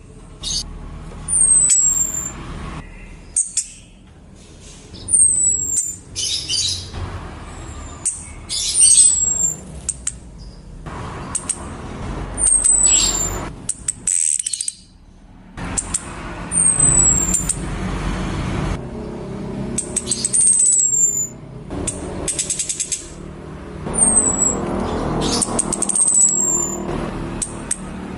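Female orange-headed thrush calls: thin, very high whistles that slide downward, repeated every two to three seconds, with short harsher chattering notes between them. This is the female's call that draws a male to sing, with a low background rumble underneath.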